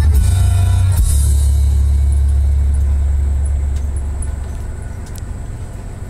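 Scania 111 truck's six-cylinder diesel engine running with a steady, deep rumble that fades somewhat over the last couple of seconds.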